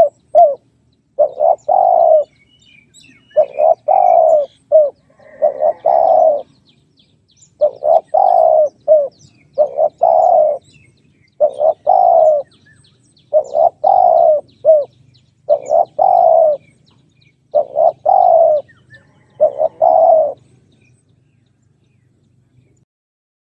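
Spotted dove cooing: a phrase of several low coo notes repeated roughly every two seconds, stopping about 20 seconds in. Faint chirps of small birds sound in the background.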